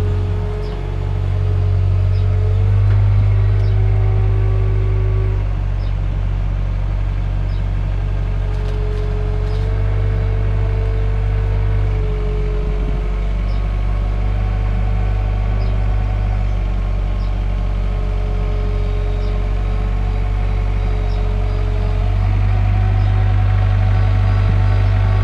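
Motor vehicle engine running steadily under a low drone, its pitch shifting slightly a few times as the speed changes.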